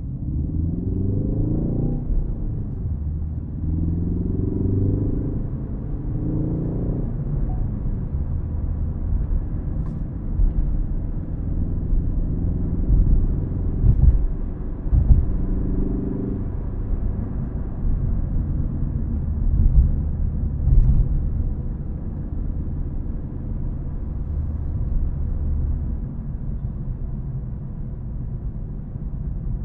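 Ford Focus ST engine pulling hard through the gears of its six-speed manual: the pitch climbs three times in the first seven seconds, dropping back at each upshift, then settles into a steady drone with road rumble and a few short thumps around the middle.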